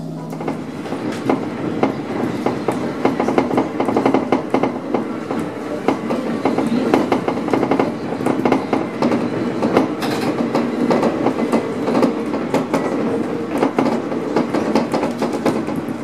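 A 3-car electric multiple unit train running along the line, heard from the driver's cab: a steady running noise with its wheels clicking and clattering over the rail joints. A steady hum cuts off just after the start.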